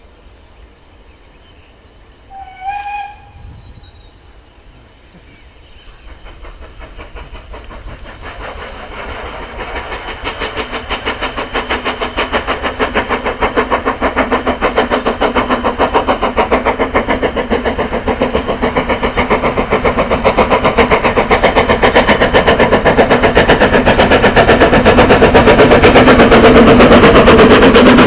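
Steam locomotive giving a short whistle, then approaching under steam, its rapid exhaust beats growing steadily louder as it nears.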